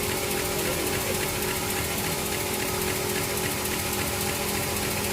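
Sawmill machinery running steadily, with no cut being made: a constant motor hum with faint, evenly spaced ticking.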